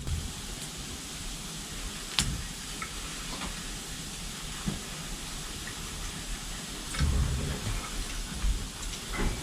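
Campfire burning with a steady hiss. A sharp click comes about two seconds in, and low thuds come around seven seconds, as the hot sandwich maker is handled.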